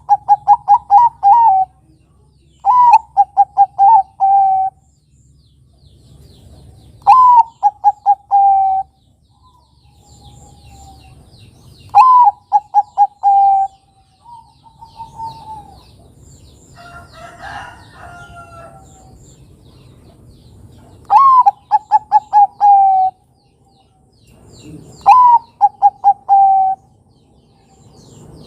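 Zebra dove (Bangkok-type perkutut) singing: about six phrases, each a higher opening coo followed by a quick run of five or six short coos that fall slightly in pitch. Fainter calls of other birds come between phrases, most clearly just after the middle.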